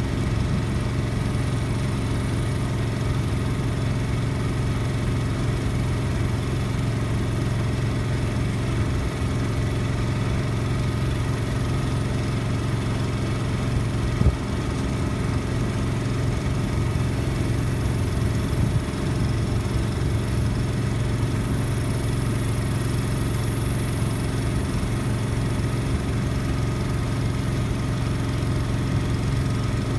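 An engine running steadily at an even speed, with a couple of brief knocks.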